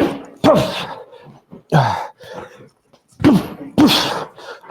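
Front hook punches landing on a training dummy, about five blows in uneven pairs, each with a short sharp breath out from the boxer.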